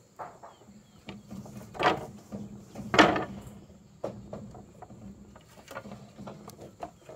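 A scattered series of knocks and clatters, with two louder knocks about two and three seconds in, over a faint steady low hum.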